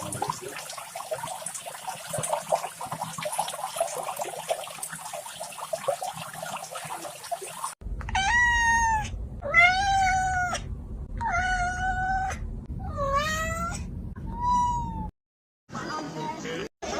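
A cat meowing, five separate drawn-out meows, some bending down and back up in pitch, starting about halfway through. Before them there is a scratchy, crackling noise.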